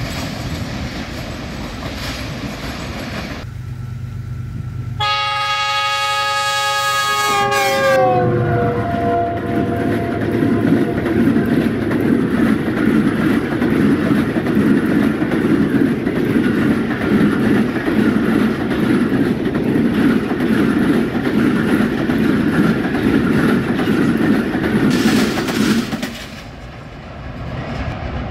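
Train horn sounding a chord of several notes for about three seconds, its pitch dropping as the train passes. Then passenger coaches run by close at speed with a loud, steady rumble and clatter of wheels on the track, which stops abruptly near the end.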